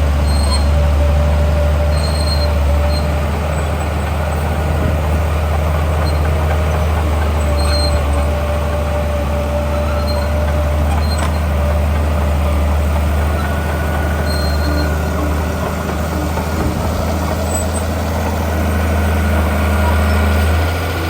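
Heavy diesel engine of earthmoving machinery running steadily with a deep low rumble, and a single sharp click about eleven seconds in.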